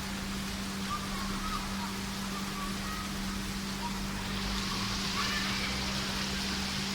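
Steady rain falling, an even hiss that grows a little brighter about four and a half seconds in, over a steady low hum.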